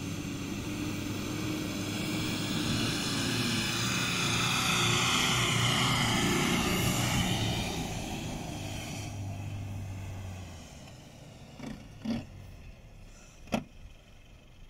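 A 4WD ute's engine working hard as it climbs a steep soft sand dune, growing louder to a peak midway and then fading away. Two short knocks follow near the end.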